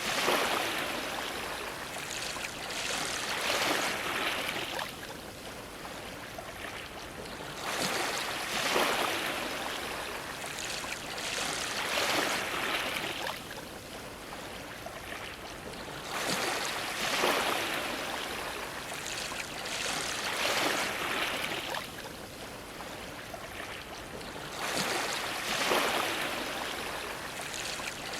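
Ocean waves washing against a dock, a hiss of water that swells into a splash every few seconds and ebbs between.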